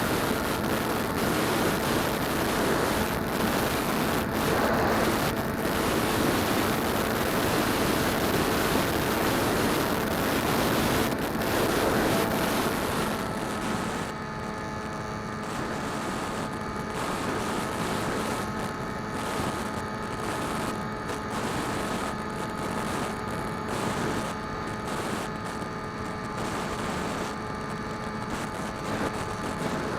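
Phantom quadcopter's motors and propellers running steadily, heard from a camera mounted on the drone, with heavy wind rush over the microphone. About 13 seconds in the wind hiss eases and the steady propeller hum stands out more clearly.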